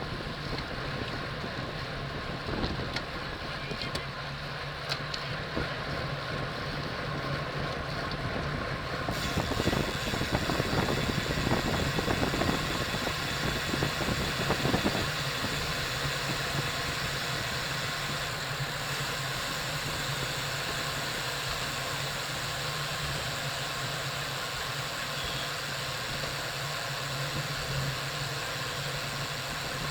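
Wind rushing over the microphone of a camera riding on a racing bicycle at speed, with tyre and road noise beneath. The rush grows brighter and hissier about nine seconds in.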